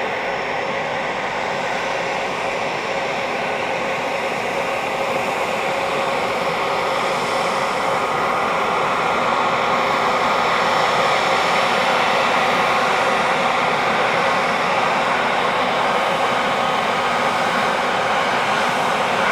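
Cessna 172 Skyhawk's piston engine running at low power as the plane comes in to land, a steady drone that grows slowly louder.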